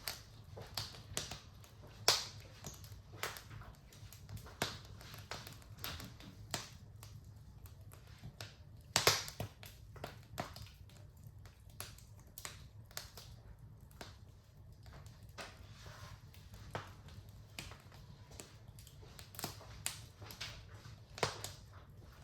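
Wood fire crackling in a fireplace: irregular sharp pops and snaps over a low steady rumble of the flames, with two louder pops, about two seconds in and about nine seconds in.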